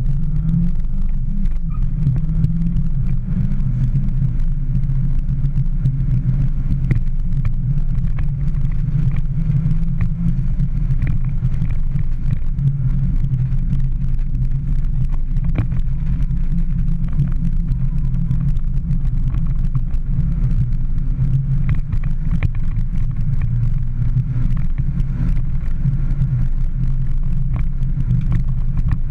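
Mini Cooper S's four-cylinder engine running under way, heard inside the cabin together with road and tyre noise. It is a steady, loud, low drone whose pitch shifts a little with throttle and gear changes.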